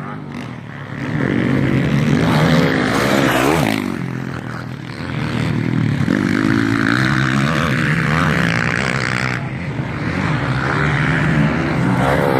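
MX1 motocross bikes racing past, their engines revving up and down in repeated rising and falling pitches as several machines go by, with loudness swelling and dipping as they pass.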